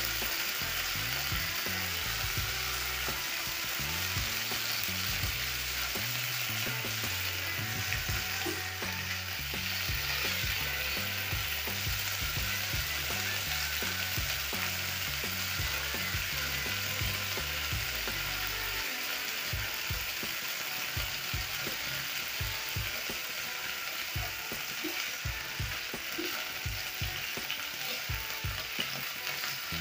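Beef liver slices sizzling steadily as they fry in oil in a non-stick pan, with a spatula stirring and scraping them around the pan in frequent short strokes.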